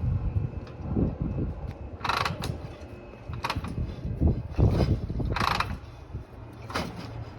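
Kick-start mechanism of a 1952 Harley-Davidson FL Panhead being worked with the engine not yet running: irregular clunks and ratcheting clatter, several sharp strokes over a few seconds, as the cold engine is turned over in its pre-start priming routine.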